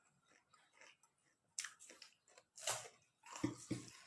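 A person eating: irregular crunchy bites and chewing, with a few louder crunches in the second half.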